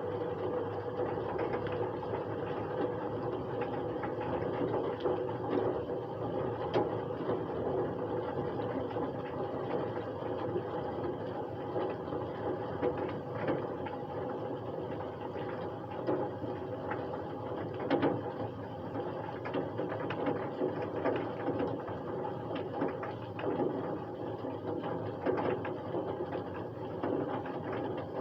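Rain drops falling in a dense, continuous run of small taps and ticks, over a steady hum.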